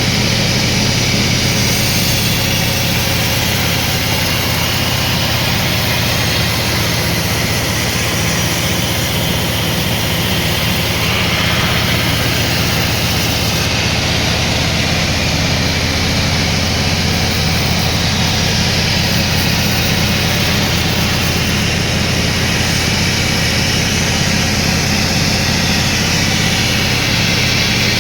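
Sawmill machinery running steadily, a constant engine-like hum.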